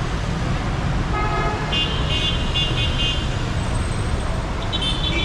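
Dense city road traffic running steadily, with vehicle horns honking over it: a series of short toots from about a second in to the middle, and another horn near the end.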